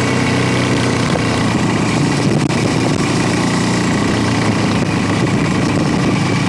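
Motorcycle engine running steadily, with a constant rumble and no change in pitch.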